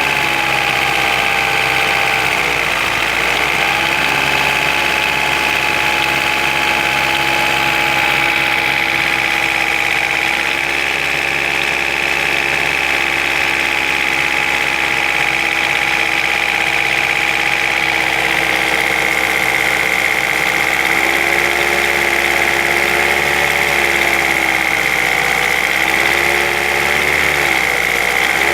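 An engine running steadily at idle. Its speed dips and recovers about three seconds in, then wavers up and down several times near the end.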